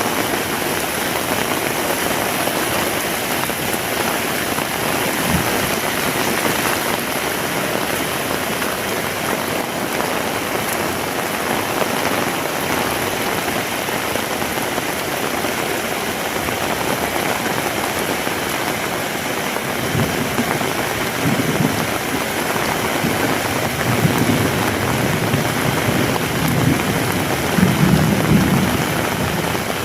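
Heavy rain falling steadily, a dense, even hiss. In the last third, low rumbles come and go under the rain.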